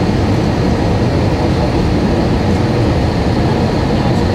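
Steady rumble of an airliner in flight or on the runway as heard inside the passenger cabin: engine and airflow noise, even in level throughout.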